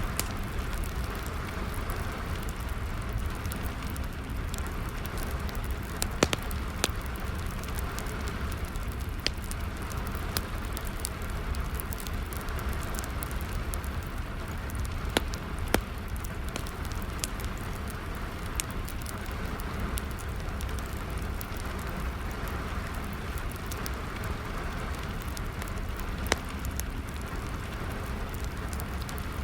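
Steady rain with a wood fire crackling over it, with scattered small crackles and a few louder sharp pops.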